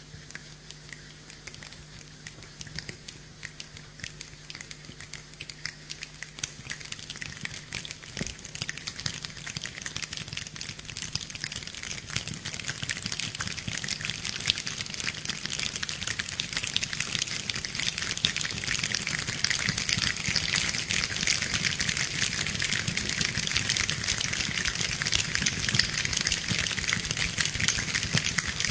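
Hands imitating rainfall: a dense patter of many small taps and clicks that grows steadily louder and fuller, like rain building from a drizzle to a downpour.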